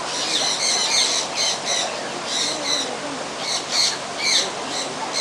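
Birds calling with short, repeated squawks, several calls a second, one after another.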